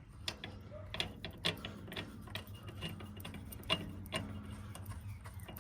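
Irregular metallic clicks and clinks of hand tools and brake parts as the adjusting nut on an A414 tractor's brake rod is threaded back on and adjusted.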